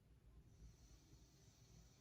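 Near silence with a faint, slow breath: a soft hiss of air starting about half a second in.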